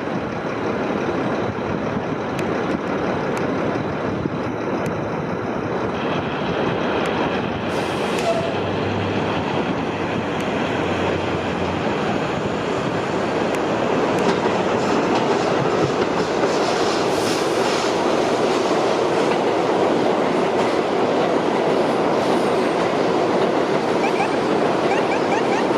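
New York City Subway train running along the track, growing louder through the second half, with two brief high-pitched squeals about a third of the way in and past halfway.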